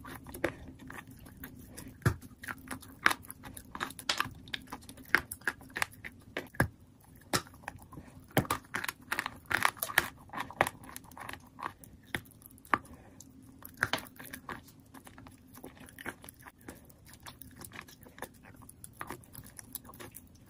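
Chewing a mouthful of crunchy white chalk coated in wet clay paste: many sharp, irregular crunches as the chalk breaks between the teeth, busiest in the middle and thinning out near the end.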